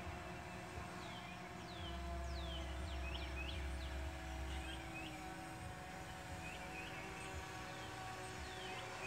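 Birds chirping in many short, high, downward-sweeping calls over a faint steady hum, with a low rumble from about two to five seconds in.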